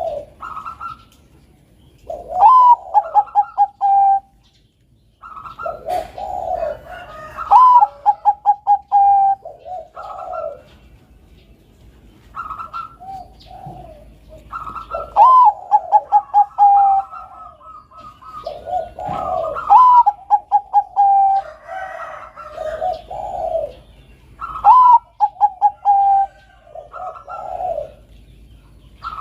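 Zebra dove (Bangkok perkutut) song: repeated cooing phrases every four to five seconds, each opening with a rising note and running into a quick series of short clipped notes, with lower, rounder coos in between.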